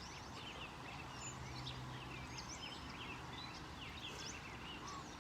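Several wild birds singing and chirping in quick, overlapping short calls over the steady rush of a creek.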